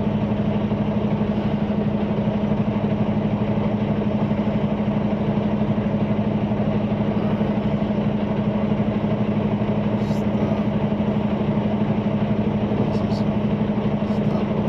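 Semi truck's diesel engine idling steadily with a constant low hum, a few faint ticks about ten and thirteen seconds in.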